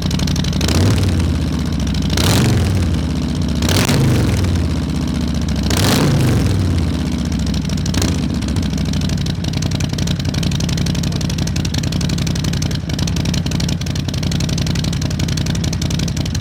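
Harley-Davidson Milwaukee-Eight V-twin engine blipped about five times, each rev rising and dropping back quickly, then settling into a steady idle for the second half.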